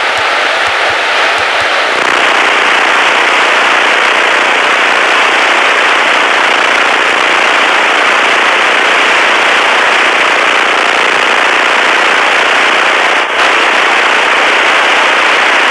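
Loud, steady cockpit noise of a Piper Tomahawk on landing: its Lycoming O-235 engine, propeller and slipstream make a dense roar. A thin steady high tone runs through the first two seconds, then stops and the roar turns brighter. There is one brief dip about 13 seconds in.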